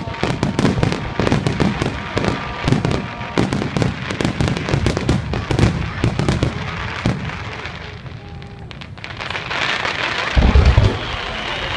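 Fireworks display: a dense run of rapid crackling bangs from many small bursts, thinning out after about seven seconds. A hiss builds, then a heavy deep boom comes about ten and a half seconds in, with a whistling tone starting near the end.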